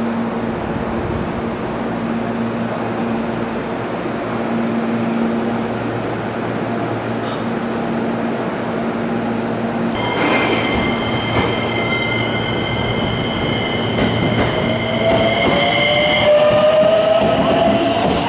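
An electric train moving at a station platform. About ten seconds in, a louder rush starts with a steady high squeal, and in the last few seconds a rising whine climbs in pitch.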